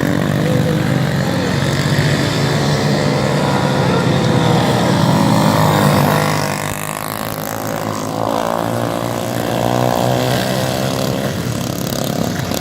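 Dirt-track racing motorcycles running at high revs, their engine notes rising and falling. The sound is loudest about five seconds in, drops off as the bikes pass, then builds again.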